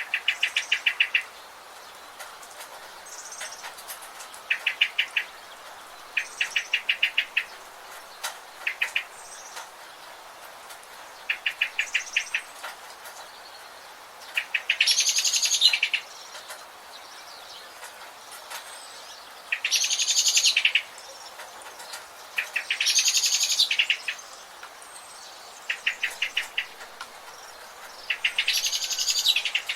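Rain forest birds calling: short, rapid trills of about a second repeat every few seconds, and four louder, longer, harsher calls come in the second half, over a steady background hiss.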